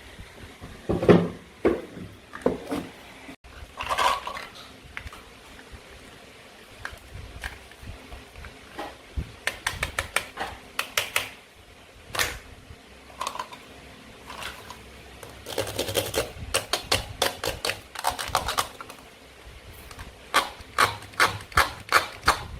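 Toy play food being cut and handled on a board: scattered knocks and taps, then several quick runs of sharp clicks.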